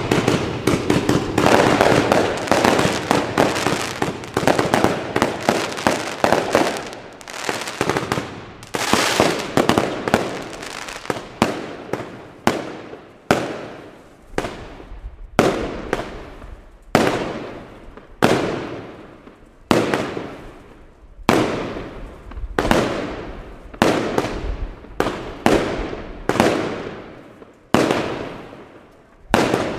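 Aerial fireworks bursting: a dense volley of bangs for the first several seconds, then single bangs about one a second, each trailing off.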